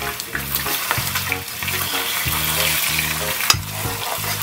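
Pork ribs sizzling in barbecue sauce and their own rendered fat in an earthenware pot as they begin to brown, while a metal spoon stirs them, with many short scrapes and clicks against the pot. Background music with a repeating low bass pattern plays underneath.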